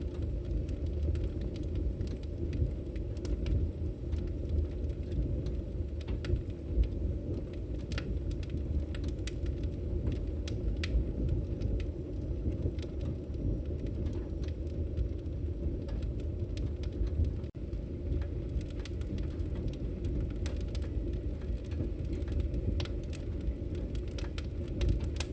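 Wood fire crackling in a fireplace: a steady low rumble of the burning fire with irregular sharp pops and crackles.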